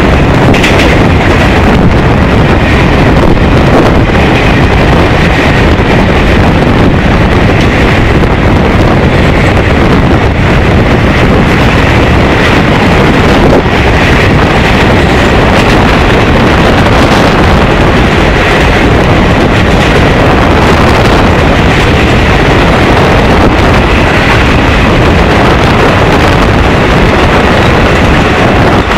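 Train running at high speed: a loud, steady rush of wind and wheel-on-rail rumble, with wind buffeting the microphone and a faint high whine under it.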